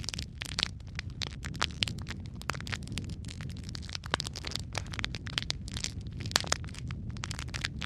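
Wood fire crackling in a fireplace: a steady low rumble with frequent irregular snaps and pops, a few louder pops among them.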